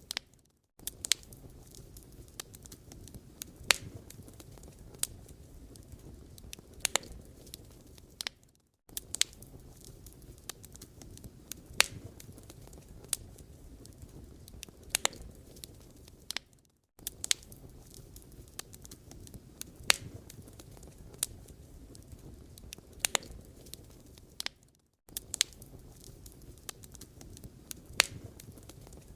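Wood fire burning, with irregular sharp crackles and pops over a low steady rumble of flames. The sound drops out briefly about every eight seconds.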